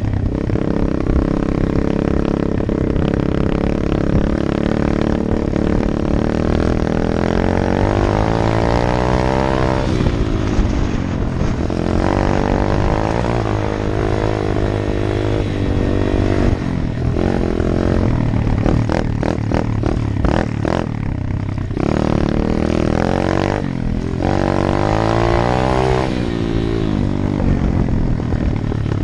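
125 cc Apollo dirt bike engine running under way, revving up and falling back again and again, with several brief dips in the middle.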